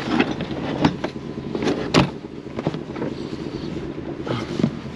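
Steady low vehicle rumble, with a handful of sharp knocks and rattles, the loudest about two seconds in.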